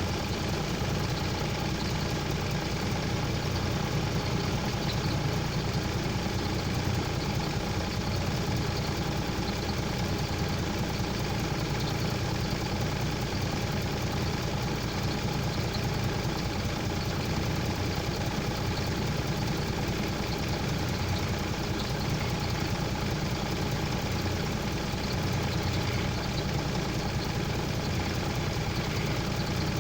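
A heavy vehicle's engine idling steadily, with no change in speed.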